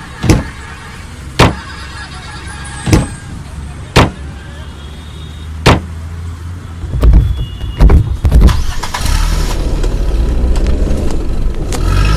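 Car doors shutting, heard as five sharp knocks over the first six seconds. About seven seconds in, the car's engine starts with a few heavy thumps, then runs with a steady low rumble.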